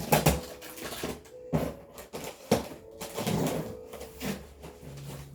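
Irregular clicks and knocks, several sharp ones in the first few seconds, over faint background music.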